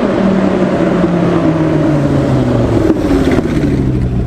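Straight-piped Dodge Viper V10 engine running loudly, its pitch slowly sinking as the revs fall back.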